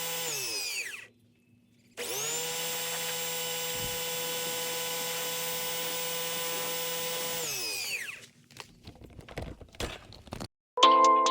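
A power tool's electric motor winding down, then starting again about two seconds in, running at a steady whine for several seconds and winding down again. A few scattered clicks and rattles follow.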